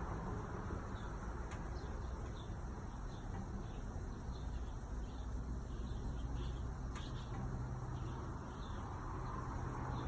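A. O. Smith gas water heater running with its burner lit: a steady low rumble with a faint hum underneath. Faint, short, high chirps come and go over it.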